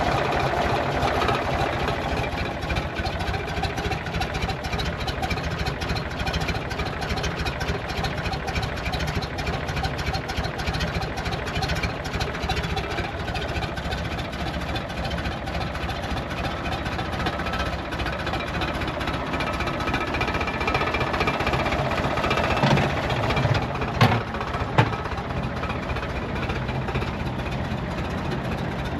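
1960 Porsche 356 B Super's 1600 Super air-cooled flat-four with twin Solex carburettors, idling steadily after a cold start. Near the end the sound swells briefly and two sharp clicks follow.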